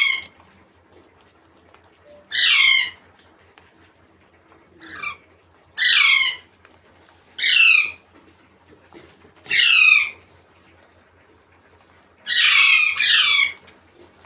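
A parrot giving harsh, repeated calls. Each lasts under a second and falls in pitch, and they come about every one to two seconds, with two back to back near the end.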